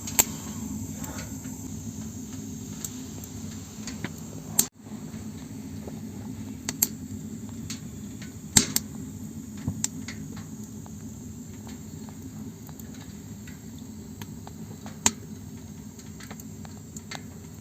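Homemade tent stove built from paint buckets, burning wood: a steady low rumble with sharp crackles and pops every few seconds.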